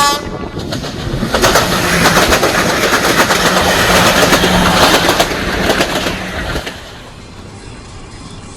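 A train passing close by at speed, its wheels clicking rhythmically over the rail joints. It is loud for about six and a half seconds, then drops away sharply as the last carriage passes.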